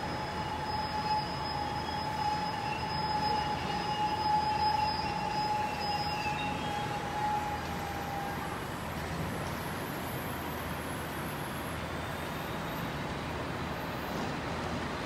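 A train running through the station: a steady low rumble, with a steady high whine over it that fades out about eight seconds in.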